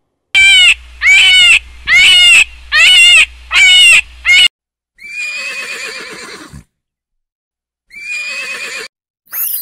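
An animal calling: six short, loud, pitched cries in quick succession, then two longer, quieter calls.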